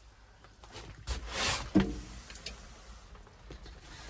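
A short rushing scrape, then a single sharp knock that rings briefly, a little under two seconds in.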